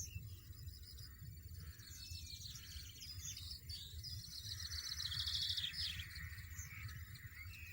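European goldfinches twittering, with rapid trilled high notes that are busiest about two-thirds of the way through, over a low steady rumble.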